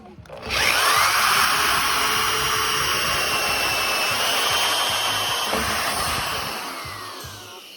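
Power drill driving a hole saw through the wall of a rain barrel to make the hole for a hose valve. The motor whines up about half a second in, runs steadily under load for about six seconds, then winds down near the end.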